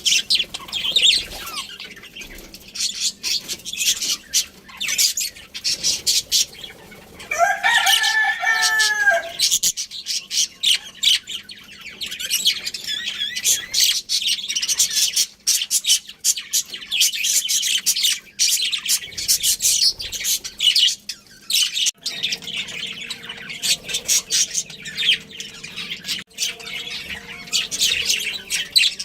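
Budgerigars chirping and chattering continuously in rapid high notes. About eight seconds in, a rooster crows once for about two seconds.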